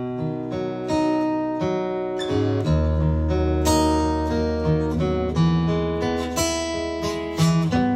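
Acoustic guitar playing a song's intro, with notes picked and strummed and left ringing. Deep bass notes join about three seconds in.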